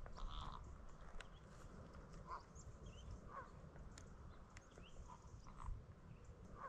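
Faint, scattered short calls of distant birds, about half a dozen spread over several seconds, with a few small higher chirps and sharp ticks over a low outdoor rumble.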